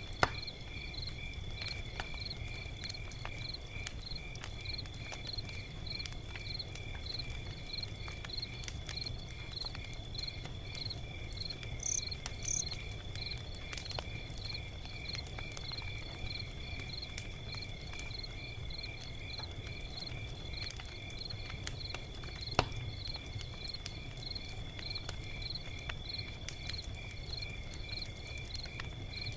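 Log fire crackling with scattered small clicks and a low rumble, with two sharp louder pops, one at the very start and one about 22 seconds in. Crickets chirp steadily through it in a high rhythmic pulse of about two chirps a second.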